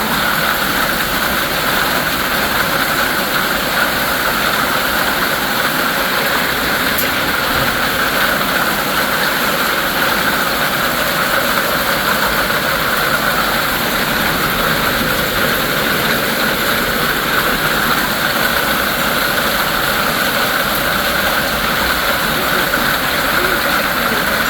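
Heavy hail coming down, a dense, steady noise of impacts that holds unchanged throughout.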